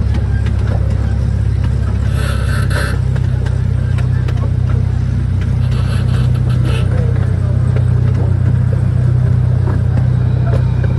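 A moving vehicle's steady low rumble, with two brief bursts of higher-pitched noise about two and six seconds in.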